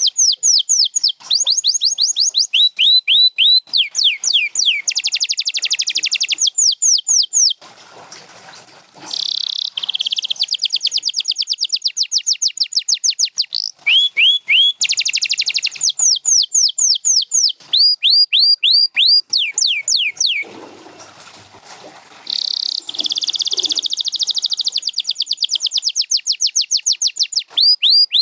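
A domestic canary sings a long song. Fast buzzing trills alternate with runs of quick down-slurred whistled notes, and the song breaks off briefly twice.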